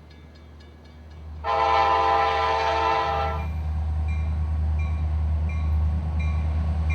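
Diesel freight locomotive sounding its multi-chime air horn in one blast of about two seconds, starting about a second and a half in, over the steady low rumble of its engine, which grows louder after the blast. A faint short tone repeats about twice a second in the background.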